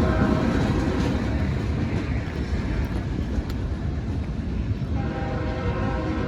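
Freight train rolling past a grade crossing: a steady rumble of wheels on rail that eases slightly. About five seconds in, a set of steady tones joins it.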